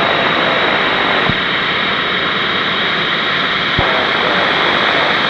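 Steady jet noise with a high whine from the Boeing 757-223's Rolls-Royce RB211-535E4B engines at taxi after landing; two sharp clicks about two and a half seconds apart.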